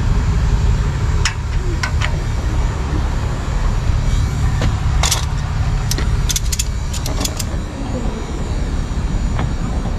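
Steady low rumble of an idling vehicle engine, with a scattering of sharp clicks and light rattles, several bunched together past the middle.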